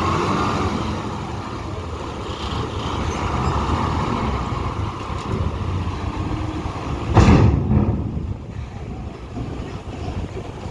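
A heavy vehicle's engine running steadily, with a short, loud burst of noise about seven seconds in.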